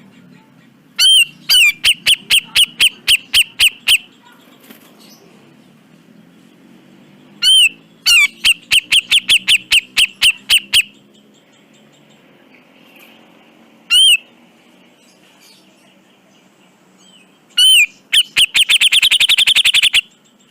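Grey-cheeked bulbul (cucak jenggot) calling in bouts. Each bout opens with a single arched note and runs into a quick series of sharp repeated notes. A lone note falls midway, and the last series, near the end, is faster.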